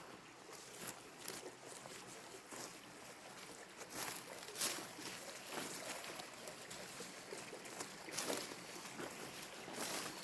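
Creek water running, with irregular rustles, clicks and knocks over it; the loudest come about four and a half seconds in, again after eight seconds, and near the end.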